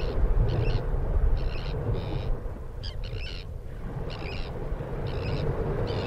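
Birds giving short, high, repeated calls, quick in succession at first and then in spaced clusters, over a steady low rumble.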